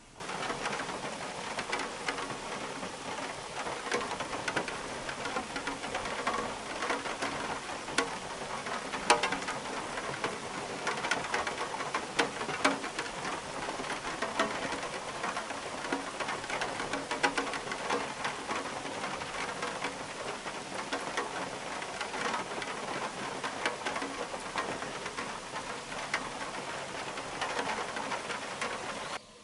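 Steady rain, a dense patter of many small drop hits.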